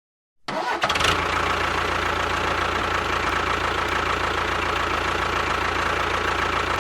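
A small motor running steadily with a constant whine, starting about half a second in after a brief silence.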